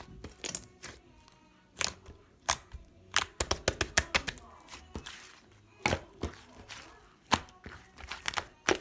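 Cloud slime being squeezed and pulled by hand, giving an irregular run of sharp clicks and pops as air pockets in the slime burst.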